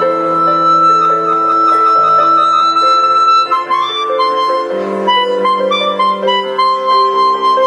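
Melodica (keyboard harmonica) playing a tune over held chords.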